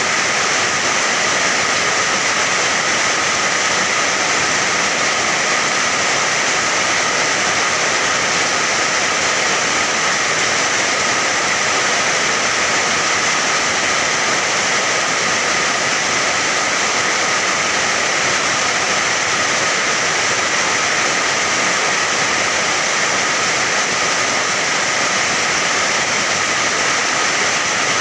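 Steady rain, a continuous even hiss with no breaks or separate drops standing out.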